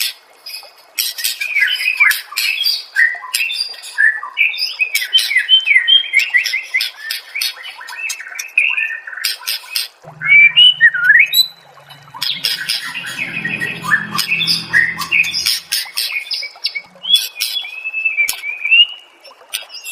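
White-rumped shama (murai batu) in full, continuous song: rapid varied whistles and chirps mixed with harsh rasping notes, with short breaks about halfway and near the end. A brief lower-pitched sound joins it a little past the middle.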